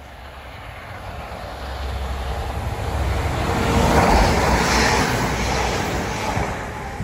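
A Transport for Wales Class 197 diesel multiple unit approaches and runs past along the platform. The rumble of its engines and wheels grows steadily to its loudest about four seconds in, as the cab passes, with a rush of air and wind buffeting the microphone.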